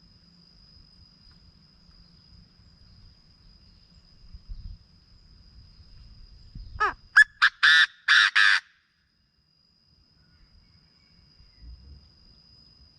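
Chinese francolin calling once about halfway in: a loud phrase of about six quick notes lasting under two seconds. A steady high insect whine runs underneath.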